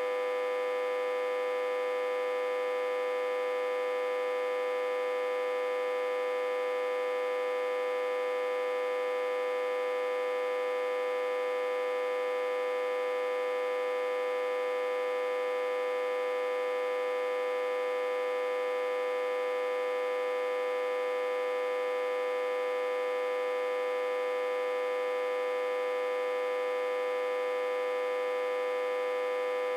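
Autotransformer humming steadily as one strong, unwavering tone with many overtones. It is reverse-connected to a step-down transformer and fed about 60–80 V.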